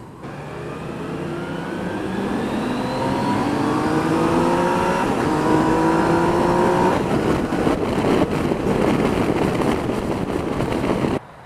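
Yamaha Niken GT's three-cylinder engine accelerating, its note climbing steadily and getting louder, then dropping at a gear change about seven seconds in, followed by a wide rush of engine, wind and road noise that cuts off suddenly near the end.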